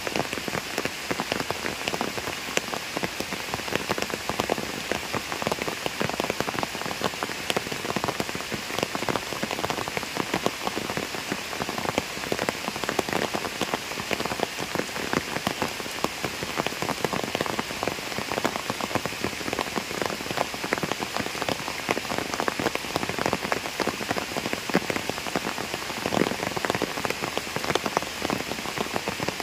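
Heavy rain falling on a pond's surface: a steady, dense patter of drops.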